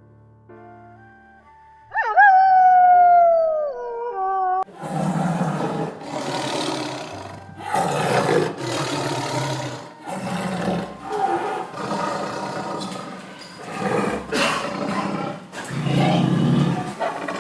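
Soft music tones, then a single pitched animal call that falls in pitch, followed by a run of loud, rough animal calls repeating about every second or so.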